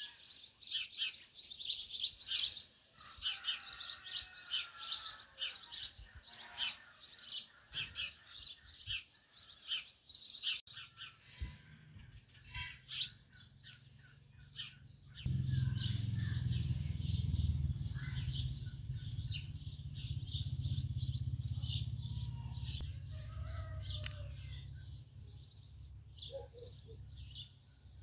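Small songbirds chirping and singing, many short high calls in quick succession. About halfway through, a low steady rumble comes in and is the loudest sound for several seconds before fading away.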